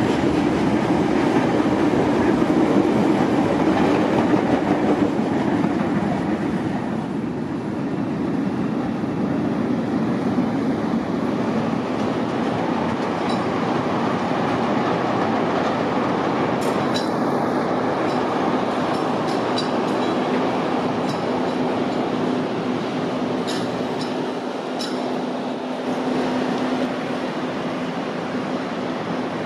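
CTA 'L' rapid-transit train running on the tracks: a continuous rumble, loudest in the first few seconds, with scattered sharp clicks through the middle and later part and a steady low hum from about two-thirds of the way in.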